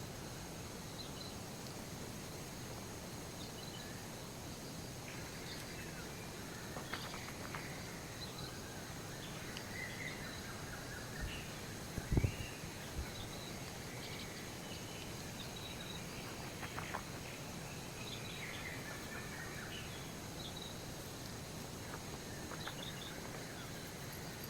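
Birds chirping and calling over a steady outdoor hiss, with a short cluster of knocks about halfway through.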